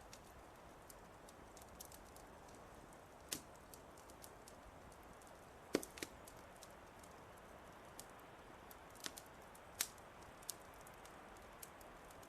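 Wood fire crackling: irregular sharp pops and snaps over a faint steady hiss, the loudest pops a little before the middle and about two-thirds of the way through.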